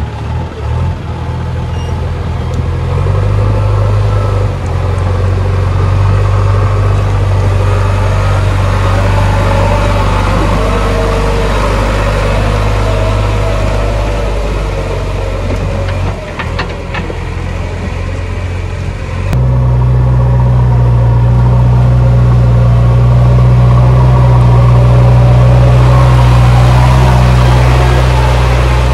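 Heavy diesel machinery engine running with a steady low drone, which changes abruptly and gets louder about two-thirds of the way through.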